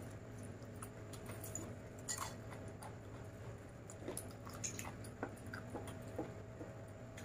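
Close-up chewing of a mouthful of rice and chicken, with scattered small clicks and wet squishes as fingers mix rice on a stainless steel plate.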